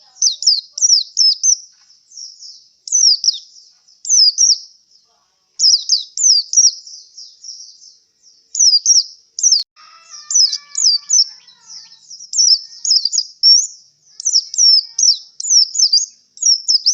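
Male white-eye (pleci) singing in bursts of quick, high, sharp chirps that sweep downward, with short pauses between the runs. The bird is in breeding condition, and its keeper calls it tired after a song contest.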